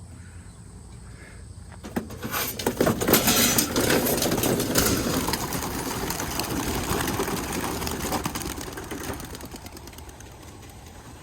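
A flock of racing pigeons released from their crates and taking off together: a clatter of many wingbeats starting about two seconds in, loudest for a few seconds, then fading as the flock flies away.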